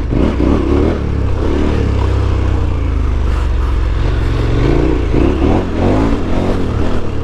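KTM 1290 Super Adventure S's 1301 cc V-twin engine running under load off-road, its revs rising and falling as the throttle is worked.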